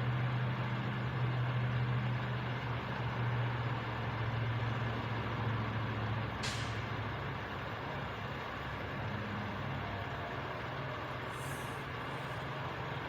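Truck left running, its engine idling with a steady low hum. About six and a half seconds in comes a brief high-pitched sound that falls quickly in pitch.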